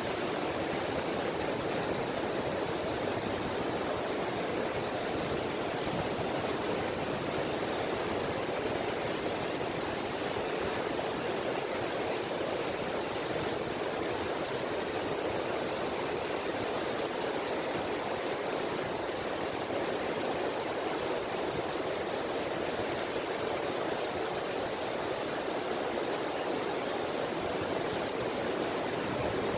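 Small sea waves lapping at the shore, a steady, even wash of water with no single breaking wave standing out.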